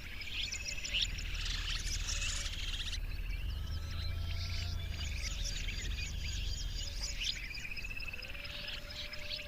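A chorus of several birds calling at once: overlapping chirps, rapid trills and short whistles, over a low rumble that fades about seven seconds in.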